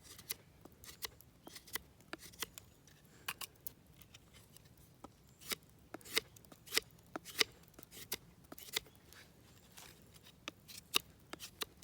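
Knife whittling a stick of cherry wood: a series of short, sharp cutting strokes at irregular intervals, about one or two a second.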